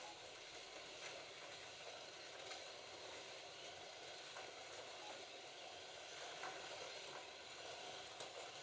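Slot cars running laps on the track: a faint, steady whirring hiss from their small electric motors and pickup braids on the rails, with a few light clicks.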